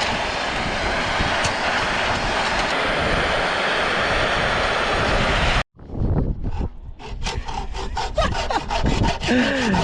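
A gas blowtorch roaring steadily, cutting off abruptly a little past halfway. It is followed by a quick run of rasping strokes, about four a second, from a hand tool working on the repair.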